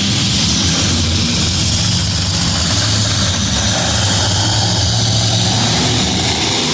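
Monster truck engine running steadily: a loud, deep drone with a hiss over it.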